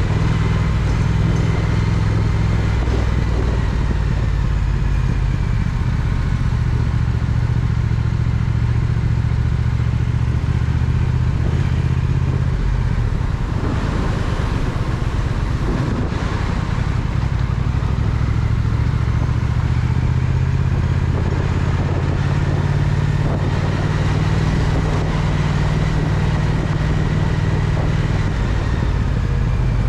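Triumph Speed Twin parallel-twin motorcycle engine running steadily under way, with road and wind noise. Its note shifts about halfway through, then settles again.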